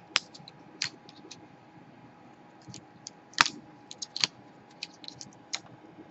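Irregular sharp clicks and taps of plastic and small metal parts as a laptop's cooling fan is worked loose and the opened laptop is handled, with one louder snap a little past the middle.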